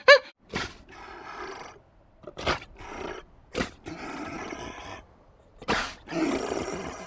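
An animal growling in rough bursts, with breathy, rasping stretches between them.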